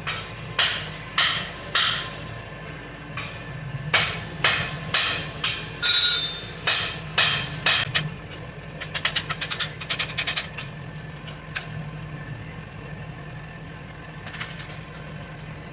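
Hand hammer striking a steel drift in a hot axe blank's eye on the anvil: metallic blows at about two a second, then a quick flurry of lighter taps. A steady low hum runs underneath.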